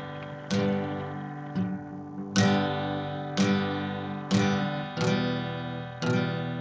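Acoustic guitar strumming chords, one strum roughly every second, each left to ring.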